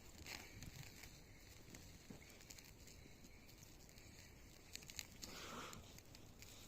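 Near silence: faint rustling with a few scattered small clicks.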